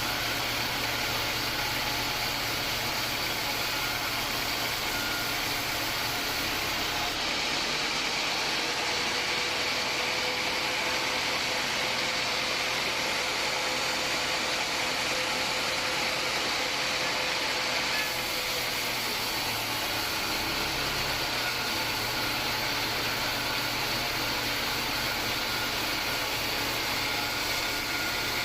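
Homemade band sawmill running steadily, a continuous machine sound whose character changes for a stretch from about 7 to 18 seconds in.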